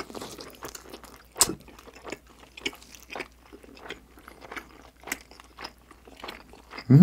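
Close-miked chewing of a pan-fried meat dumpling: wet mouth sounds with irregular crunches of the crisp fried crust, the sharpest about one and a half seconds in.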